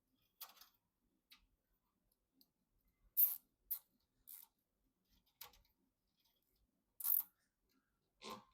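Scattered short clicks and rustles from computer parts being handled, about eight in all, the loudest about three seconds in and again about seven seconds in.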